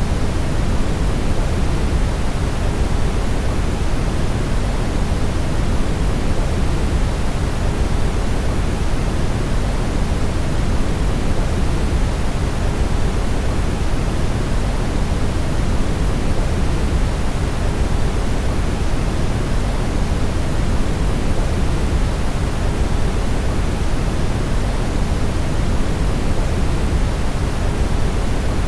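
Brown noise: a steady, even rush with most of its weight in the deep low end, the higher hiss much weaker. It does not change.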